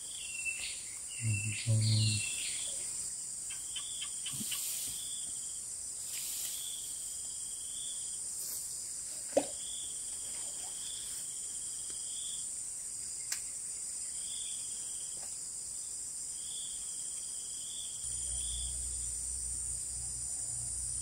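Steady high-pitched drone of insects (crickets or cicadas) on a river bank, with a second repeating insect or bird call held for a second or so at a time, some brief chirps and low handling sounds in the first two seconds, a sharp click about nine seconds in, and a low rumble starting near the end.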